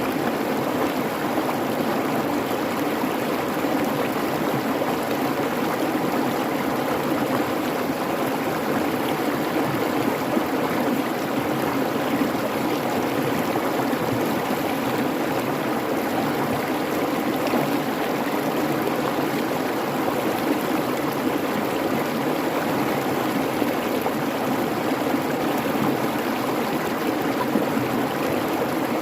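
Creek babbling steadily, an even, unbroken rush of flowing water.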